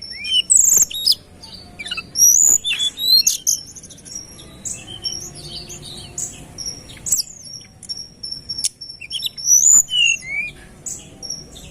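Tledekan gunung songbird singing a rapid, dense run of high chirps, short trills and quick whistled glides, one phrase after another.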